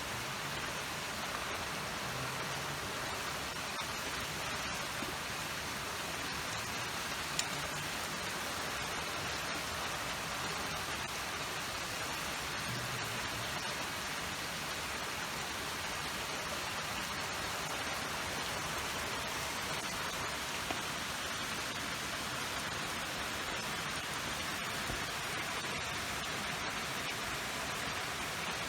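Steady rushing water noise with no break, with one sharp click about seven seconds in.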